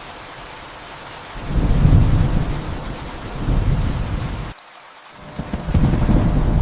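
Steady rain with thunder rumbling in about a second and a half in. The rumble cuts out abruptly for about half a second, then rolls in again.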